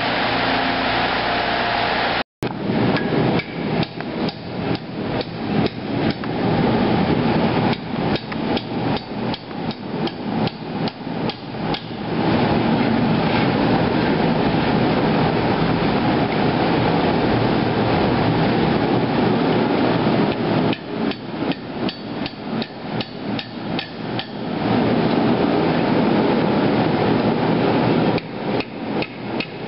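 Hand hammer striking a hot steel machete socket handle on an anvil in quick runs of about three blows a second, knocking the upturned end of the handle down. Between the runs a steady rushing noise fills two stretches with no blows.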